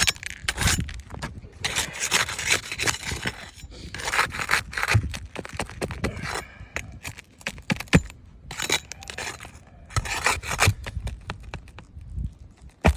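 Work under three-tab asphalt shingles to free a damaged one: irregular scraping and rubbing strokes of a tool and shingle against the roof. There is a sharp knock about eight seconds in and another near the end.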